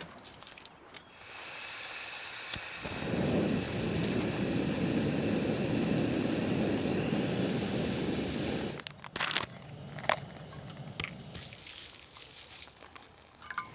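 Backpacking gas stove being lit: the gas hisses on, a click follows, and the burner catches and burns with a steady rushing noise for about six seconds before cutting off suddenly. A few sharp clicks and knocks follow.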